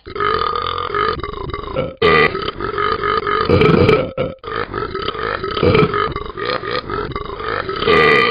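A dog burping in long, drawn-out belches, broken by brief pauses about two and four seconds in.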